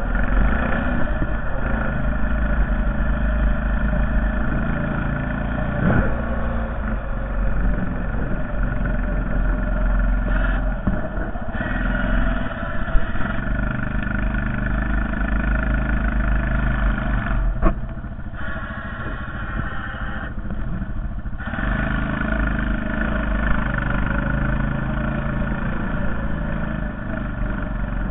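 Honda Foreman TRX450ES ATV's single-cylinder engine running steadily while plowing snow, with a few sharp knocks and clunks. The engine eases off briefly three times, near the middle and about two-thirds of the way in.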